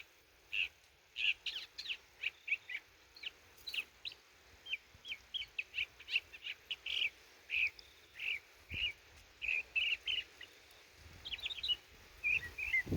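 Birds chirping: a steady run of short, high chirps, some sliding downward, coming several a second at an irregular pace.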